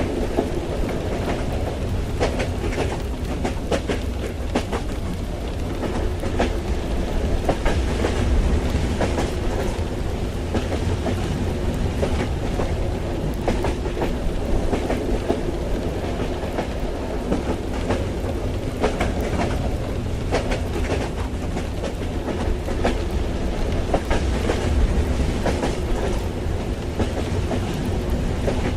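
Train running along the track, heard from inside a carriage: a steady low rumble with the wheels clicking and clacking over the rails.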